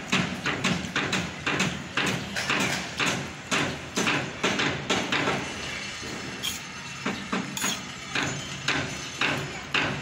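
Close-up chewing of a mouthful of rice and curry, wet smacking at about two to three chews a second. Around two-thirds of the way through, a metal spoon scrapes and clinks against a steel bowl.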